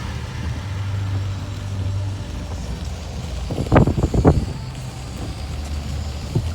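Car engine running with a steady low hum under an even hiss of heavy rain, heard from inside the vehicle. A short cluster of sharp knocks comes about four seconds in, and one more near the end.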